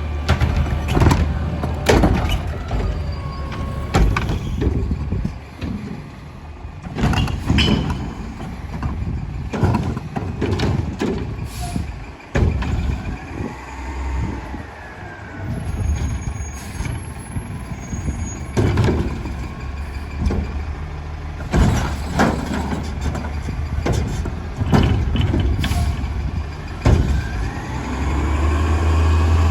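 Curotto-Can garbage truck's diesel engine running steadily under frequent sharp bangs and clatter from the recycling pickup, with hisses of its air brakes. A wavering whine comes and goes around the middle and again near the end.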